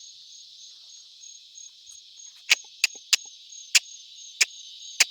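Mouth-made turkey clucks: six sharp clicks from about halfway in, at uneven intervals. They play over a steady chorus of crickets and other insects with a pulsing high trill.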